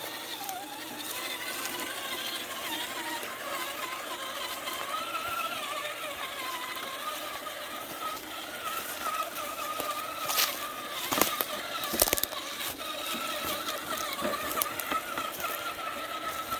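RC car's motor whining as it drives, the pitch wavering up and down with speed. A few sharp knocks about two-thirds of the way through.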